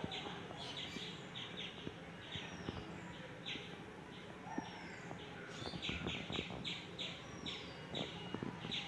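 Small birds chirping: quick runs of short repeated chirps, with an occasional downslurred whistle between them.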